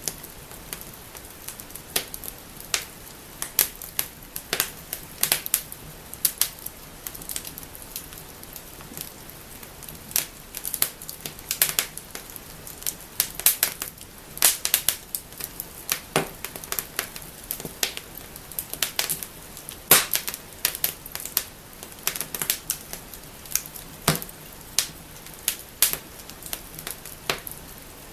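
Wood fire in a fireplace crackling and snapping: irregular sharp pops, several a second at times, over a faint steady hiss of the flames.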